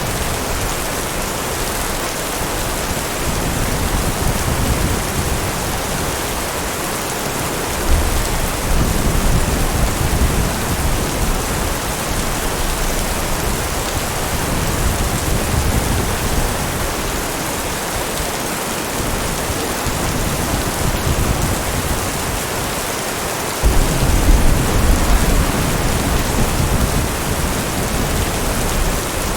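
Heavy rain falling steadily, with a low roll of thunder about eight seconds in and another, louder one about twenty-four seconds in.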